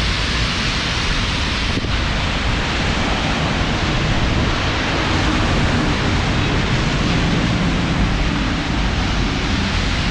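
Heavy monsoon rain pouring down steadily, a loud even hiss with a low rumble underneath.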